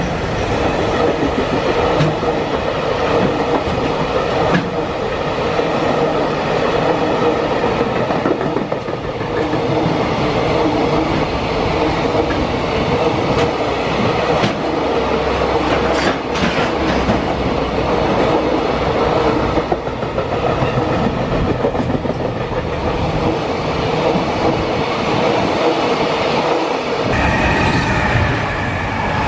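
Freight train running past on the rails, its wagons clicking over the rail joints with a loud, steady drone. Near the end the low rumble drops away suddenly and higher steady tones come in.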